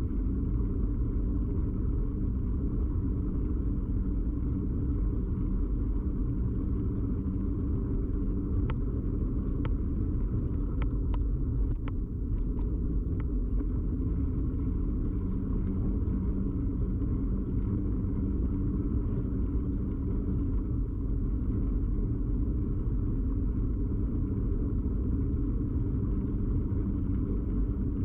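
Steady rumble and rattle of a bicycle ride, picked up through the frame by a camera fixed to the bike: road vibration and wind. A few sharp clicks come in the middle.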